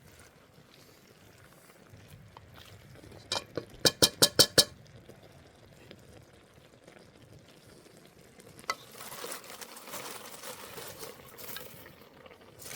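Cooking sounds from a pan and utensil: a quick run of about seven ringing metal taps about four seconds in, then a few seconds of sizzling with stirring from about nine seconds.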